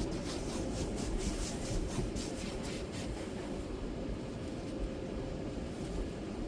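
Automatic car wash tunnel equipment heard from inside the car: a steady low rumble, with a quick series of bright swishing strokes, several a second, over the first three seconds.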